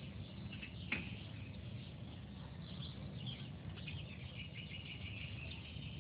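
Small birds chirping and twittering in scattered short calls, over a low steady rumble on the microphone. A single sharp click comes about a second in.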